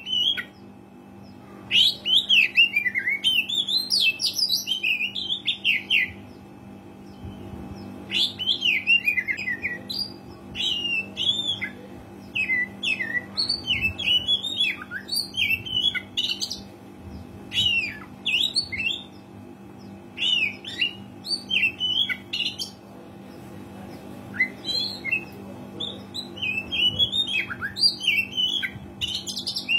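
Oriental magpie-robin singing in full voice: bursts of rapid, varied whistles and chirps broken by short pauses, over a steady low hum.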